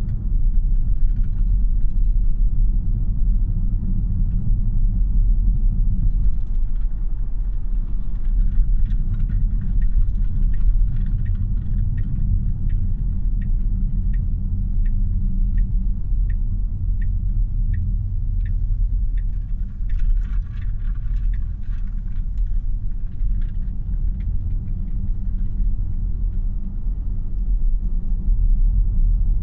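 Steady road and tyre rumble inside the cabin of a 2026 Tesla Model Y AWD, an electric car, while it drives along. In the middle, the turn-signal indicator ticks evenly, about one and a half times a second, for several seconds.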